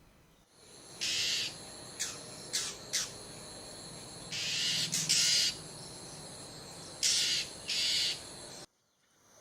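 Oriental magpie-robin giving its coarse, rasping alarm call, a series of about eight harsh rasps, some about half a second long and others short.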